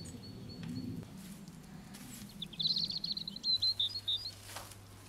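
A small bird chirping a rapid trill of high notes for about two seconds, midway through. A low steady hum comes in a little after three and a half seconds.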